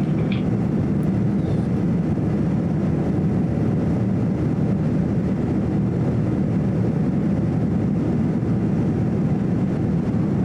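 Steady, even roar inside the cabin of a Boeing 787-9 airliner in powered flight: the noise of its Rolls-Royce Trent 1000 engines and the air rushing past the fuselage, deep and unbroken.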